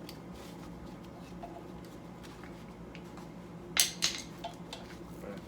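Small metal clinks and handling noises while working on a motorcycle's wiring, with a sharp clack near the middle and a second one just after, over a steady low hum.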